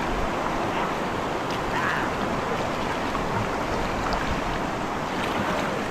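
Steady rush of river rapids, a continuous noisy wash of moving water.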